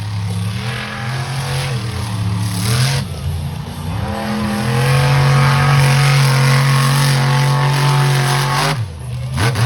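Monster truck engine revving hard, its pitch rising and falling with the throttle. From about halfway through it is held at high revs, then drops off sharply near the end.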